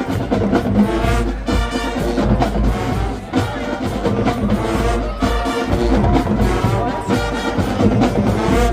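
High school marching band playing, brass carrying the tune over marching drums with a regular beat.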